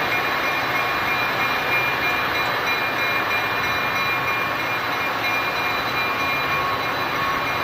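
Passenger train rolling past: a steady mix of wheel and engine noise, with a few thin, steady high whines on top.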